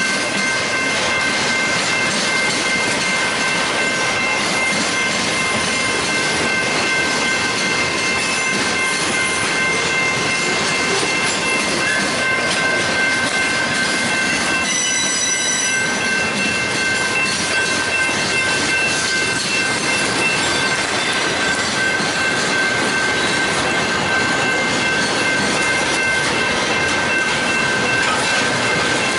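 Loaded freight cars rolling past at close range, steel wheels running on the rail with a continuous high-pitched wheel squeal. About 15 seconds in a sharper, higher squeal rings out briefly.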